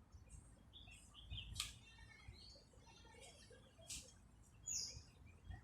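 Faint bird chirps and calls, short high notes scattered throughout, with two sharp clicks about a second and a half and four seconds in.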